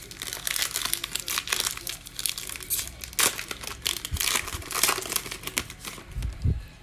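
Plastic wrapper of a Panini Mosaic trading card pack being torn open and crinkled by hand, a dense run of crackling with a few soft low thumps from handling.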